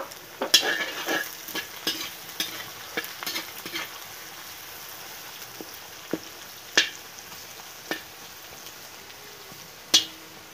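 Sliced onions sizzling in hot oil in a steel wok, with a metal ladle scraping and clinking against the wok as they are stirred. The clinks come thick and fast over the first few seconds, then as a few single knocks, the loudest about seven and ten seconds in.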